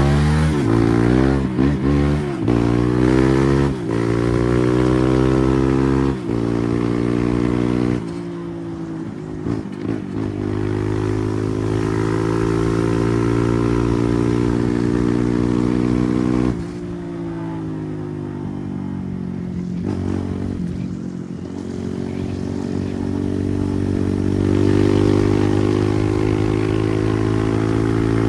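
Kawasaki KLX140RF dirt bike's single-cylinder four-stroke engine revving. Its pitch rises and falls back several times in the first eight seconds, then it runs at steadier revs with a few dips.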